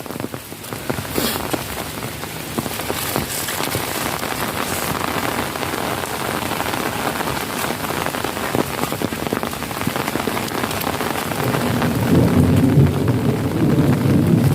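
Heavy rain pouring steadily on puddles and ground. A low rumble of thunder builds about twelve seconds in.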